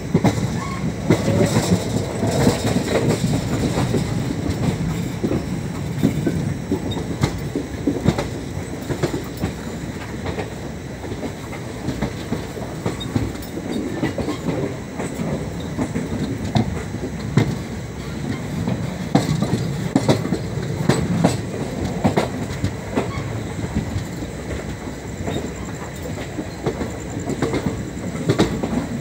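Indian Railways passenger coach running along the track, heard from on board: a steady rumble of wheels on rail with frequent sharp clicks as the wheels cross rail joints and points.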